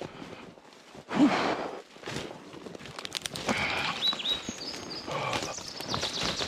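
Footsteps pushing through forest undergrowth: leaves rustling and small twigs cracking, with a short loud burst about a second in.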